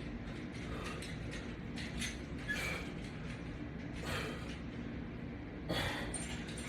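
Faint, scattered creaks and rustles over a steady low room hum, from resistance bands and their attachment being worked during slow pulls.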